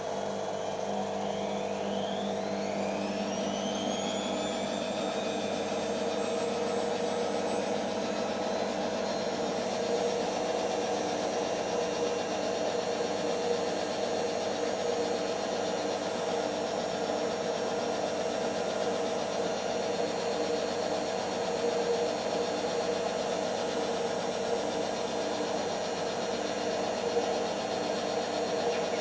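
Creda Simplicity W120VW washing machine's drum motor speeding up into a spin: a whine rises in pitch over the first several seconds, then holds steady over a constant mechanical running sound. The owner describes the motor as struggling to put power in smoothly.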